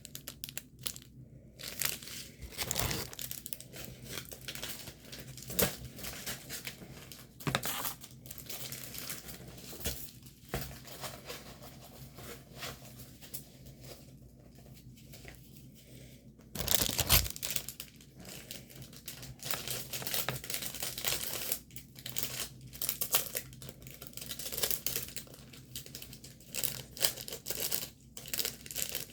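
Plastic packaging of a diamond painting kit and its bags of drills crinkling and rustling as it is handled, in irregular bursts with a louder spell about seventeen seconds in.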